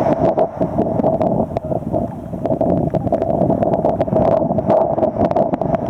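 Wind buffeting the camera's microphone, a dense rumble crackling with many sharp pops, over a steady mid-pitched hum.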